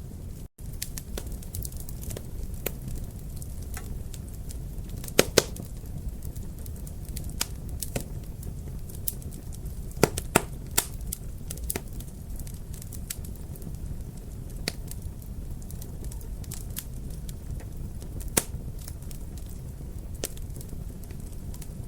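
Wood fire in a fireplace crackling steadily over a low rumble, with scattered sharp pops. The loudest pops come in a pair about five seconds in, a cluster around ten seconds in and one near the end.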